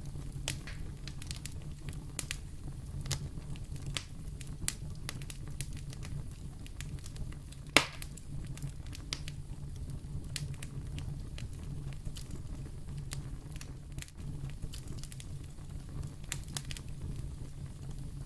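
Wood fire burning in a fireplace: a steady low rumble of flames with irregular crackles and one loud pop about eight seconds in.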